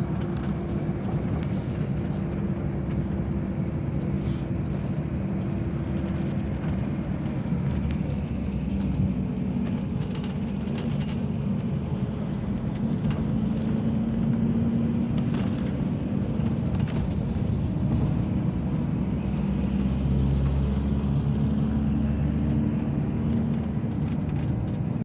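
A motor vehicle's engine running: a steady low rumble whose pitch drifts up and down, with scattered sharp taps.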